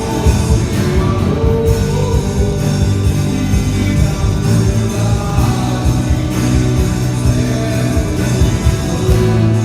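Live worship band playing with a steady drum beat under held pitched chords.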